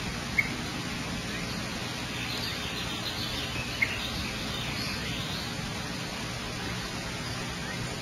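Steady background hiss and low hum with faint, scattered bird chirps. Two short, sharp chirps stand out above the rest, one about half a second in and another near four seconds in.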